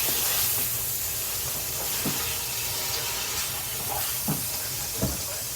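Canned tuna and spices frying in oil in a pan: a steady sizzle, with a few light knocks about two, four and five seconds in.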